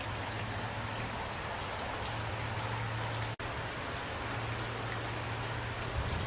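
Steady rainfall with scattered individual drops ticking over an even hiss, and a low steady hum underneath. The sound cuts out for an instant a little over three seconds in, then carries on unchanged.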